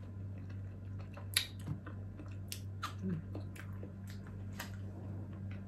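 A person chewing steamed okra close to the microphone: irregular wet mouth clicks and smacks, over a steady low hum.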